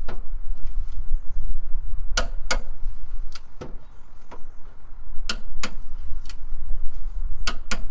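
Half-inch drive torque wrench ratcheting on the steering box bolts: sharp metallic clicks, often in pairs about a third of a second apart, with a steady low rumble underneath.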